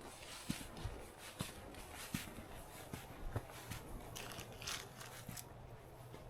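Footsteps crunching and scraping in snow, an uneven step roughly every half second to second.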